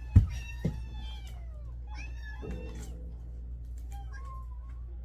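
Kittens meowing, several high-pitched mews one after another, with a couple of soft bumps in the first second. Underneath is a steady low hum.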